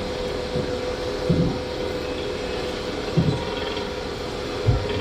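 Boat engine running with a steady drone, broken by three dull low thuds about a second and a half to two seconds apart.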